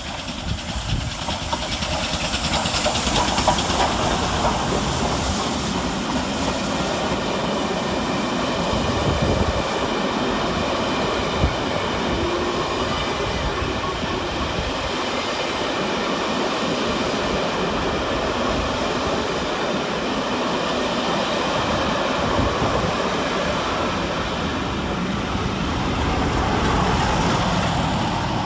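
Train passing through the station: a steady rumble of wheels on the rails with clickety-clack over the joints. It builds over the first few seconds and eases near the end.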